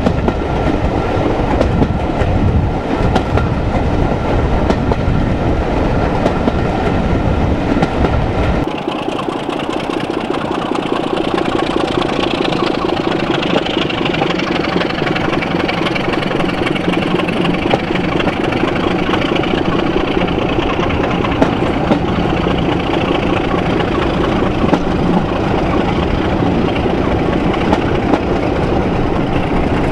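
A train hauled by a Class 26 diesel locomotive running along, heard from an open carriage window. Wind buffets the microphone heavily until about nine seconds in, then suddenly drops away. A steady drone of wheel and running noise and the diesel engine carries on.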